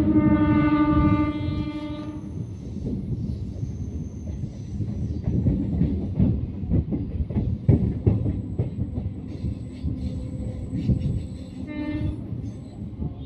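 A train horn sounds steadily and cuts off about two seconds in. Then comes the rumble of a local train running along the track, its wheels knocking over rail joints, with a short horn note near the end.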